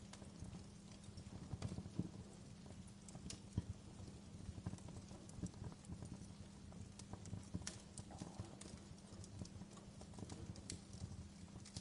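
Wood fire crackling, with irregular sharp snaps and pops over a low steady rumble of burning.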